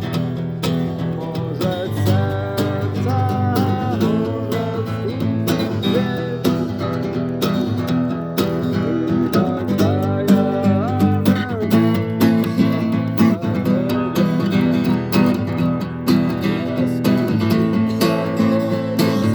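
Acoustic guitar strummed steadily, accompanying a voice singing a song.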